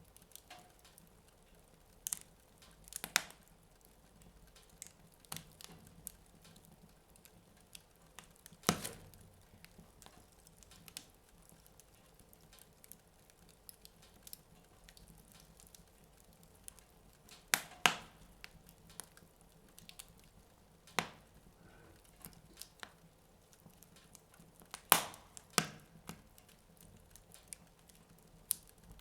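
Wood fire burning in a fireplace, crackling with irregular sharp pops; a few louder pops stand out every several seconds over a low, quiet background.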